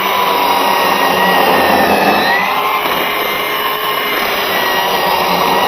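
Bauer 20V cordless electric chainsaw running, a steady motor and chain whine that wavers in pitch as it works through a piece of dry lumber.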